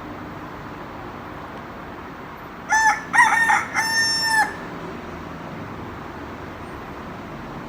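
A rooster crowing once, cock-a-doodle-doo, about three seconds in: a few short notes and then a longer held note, lasting under two seconds.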